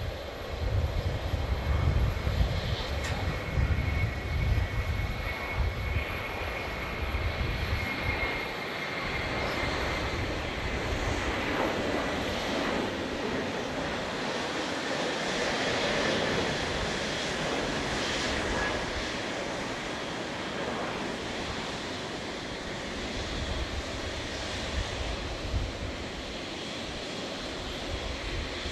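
Airliner's jet engines running as the aircraft passes: a steady roar with a deep rumble strongest for the first several seconds, and a thin whine that slowly falls in pitch.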